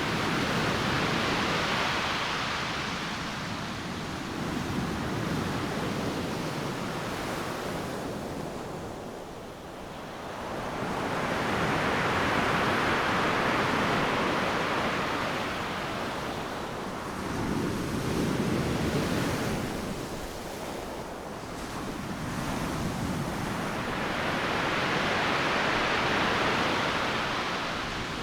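Ocean waves crashing on a beach, the surf swelling and fading in three slow surges about twelve seconds apart, with a quieter lull between them.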